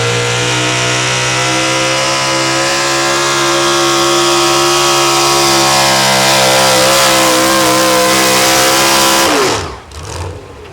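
Pro stock four-wheel-drive pulling truck's engine running at full throttle under load down the track, its pitch holding high and steady. About nine seconds in the throttle is released, and the engine note falls away abruptly to a low rumble as the pull ends.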